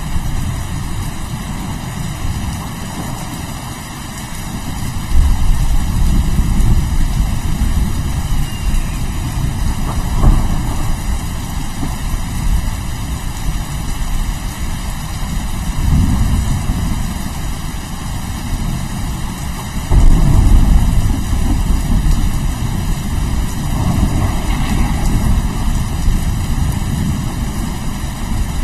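Steady heavy rain with rolling thunder: low rumbles swell several times, the strongest about five seconds in and again about twenty seconds in.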